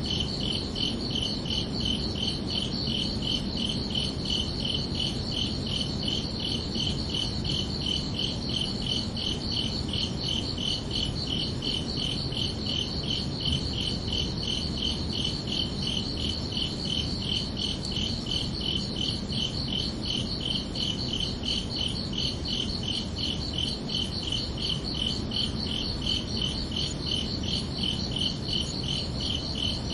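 Crickets chirping in a steady, even pulsing chorus at two high pitches, over a low background hiss.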